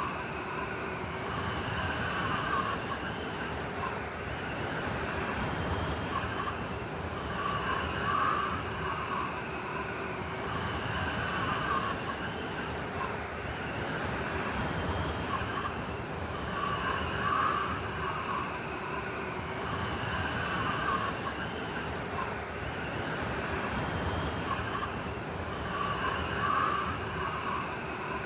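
Blizzard wind blowing steadily, with a wavering howl that swells and fades every few seconds.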